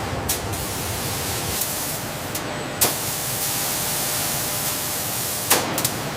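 Factory machinery: a steady, loud hiss like spraying air, broken by sharp clicks just after the start, near the middle, and twice near the end.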